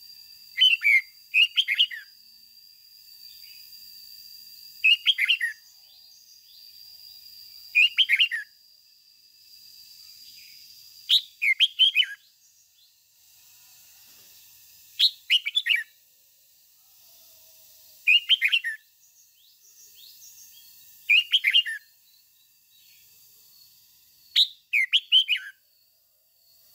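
Red-whiskered bulbul singing in short, quick bursts of song, one about every three seconds, each burst a cluster of falling notes.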